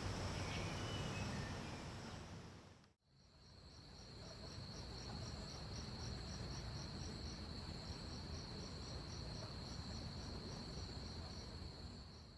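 Insects calling: a steady high-pitched buzz with a second rapid pulsing call, about four pulses a second, that pauses briefly midway. It is preceded by about three seconds of a different outdoor ambience with a low rumble and a faint chirp, which cuts out to a moment of silence.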